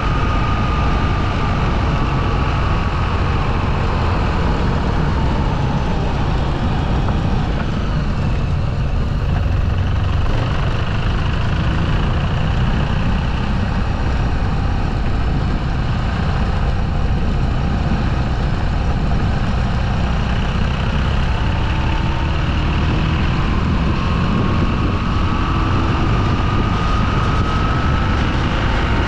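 Motorcycle riding along: a steady rumble of engine and wind noise, with a thin engine whine that drops in pitch over the first few seconds as the bike slows and climbs again near the end as it speeds up.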